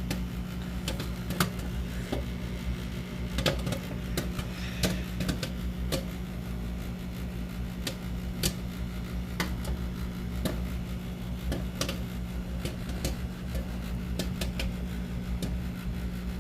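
Popcorn popping in a running microwave oven: irregular sharp pops scattered over the oven's steady low hum.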